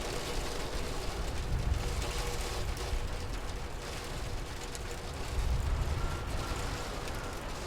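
Steady rain falling, with a low rumble underneath that swells twice, about a second and a half in and again about five and a half seconds in.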